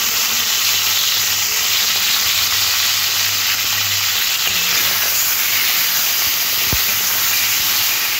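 Turmeric- and salt-coated prawns frying in very hot oil in a kadai: a steady, dense sizzle. A single light click sounds about seven seconds in.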